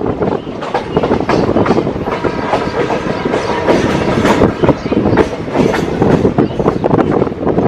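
Train running on the rails, its wheels clattering steadily over the track, with a faint high whine in the middle.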